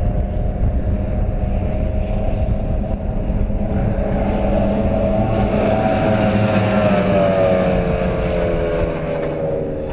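Skater catamaran powerboat's engines running hard at speed, the note steady at first and then dropping gradually over the last few seconds.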